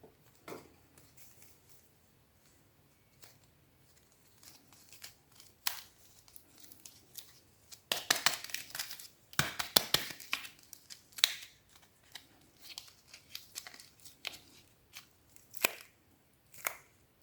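Soap packaging being unwrapped by hand: scattered crinkles and tearing, with a dense run of tearing and crinkling from about eight to eleven seconds in, and a few sharp single crackles near the end.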